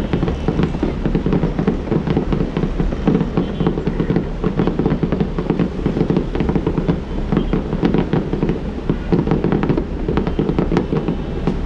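Fireworks going off in quick succession: a dense, continuous crackle of pops and bangs over a low rumble.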